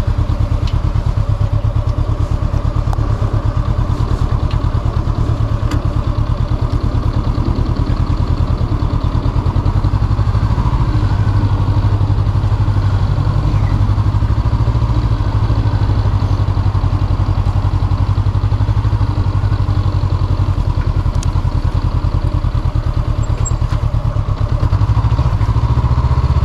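Honda CB500F's 471 cc parallel-twin engine running while the motorcycle is ridden, steady, getting a little louder near the end.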